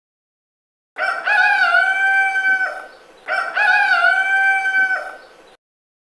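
Rooster crowing twice in a row, starting about a second in: each crow is one long held call of about a second and a half with a brief wavering dip in pitch near its start.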